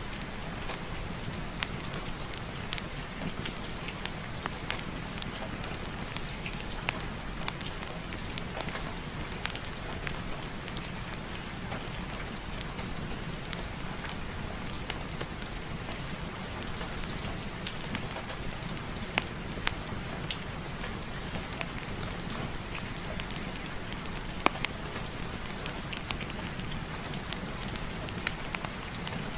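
Steady heavy rain on a surface, mixed with a crackling fireplace fire: a constant rushing hiss with a low rumble under it and scattered sharp pops.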